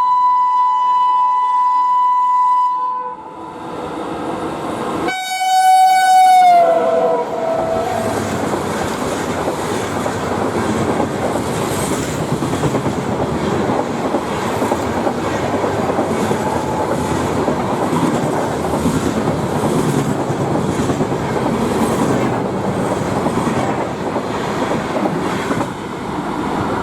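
Train horn holding one steady note, which stops about three seconds in; a couple of seconds later a second, louder horn blast drops in pitch near its end. The train then runs past with a steady rumble and the clickety-clack of wheels over rail joints.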